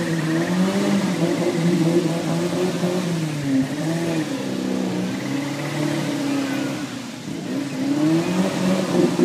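Suzuki Samurai engine revving hard while working through a mud pit. Its pitch rises and falls several times as the throttle is worked, with dips about three and a half and seven seconds in.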